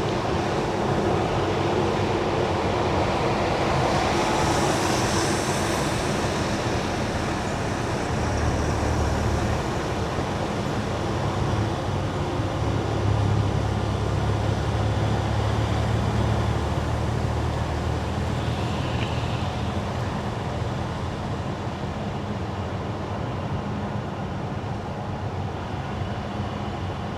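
Car tyres running on wet winter asphalt: steady road noise with a hiss of spray about five seconds in, and a low hum joining from about eight seconds in until about twenty seconds in.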